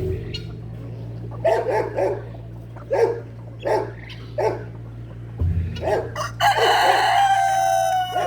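Chickens clucking in short calls, then a rooster crows once, one long call lasting about two seconds near the end, over a steady low hum.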